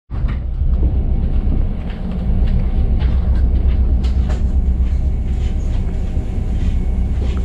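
Mugunghwa passenger train running on the rails: a steady low rumble with occasional faint clicks of the wheels.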